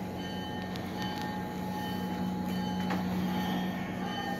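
Steady hum and rumble of a moving train heard from inside the railcar, with a few faint clicks.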